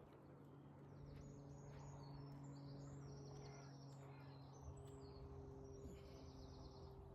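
Faint birdsong: a run of short, high chirps and trills, over a low steady hum.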